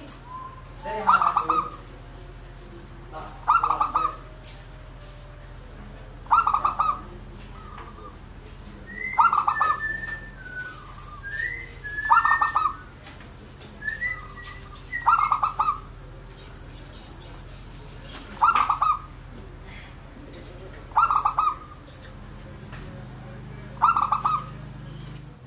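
Zebra dove (perkutut) cooing: a rolling coo that repeats about nine times, every two and a half to three seconds. Short, higher chirps from another bird come in the middle.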